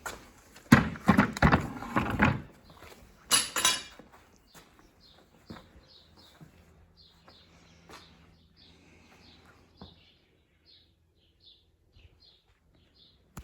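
A clatter of knocks in the first few seconds, then a bird calling in short, high chirps, about two a second, that carry on to the end.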